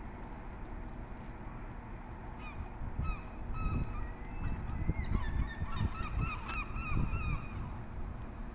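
Birds calling in a rapid series of short, arched call notes that start about two seconds in, crowd together in the middle and stop near the end, over a steady low rumble of wind on the microphone.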